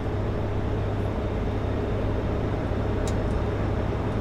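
Steady low drone of a Kenworth W900L semi truck underway, engine and road noise heard inside the cab, with a couple of faint light ticks about three seconds in.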